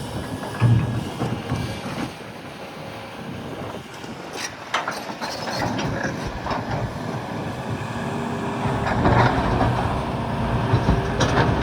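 Volvo EC380EL excavator running steadily under load, with irregular knocks and clattering of rocks against the bucket and the truck bed.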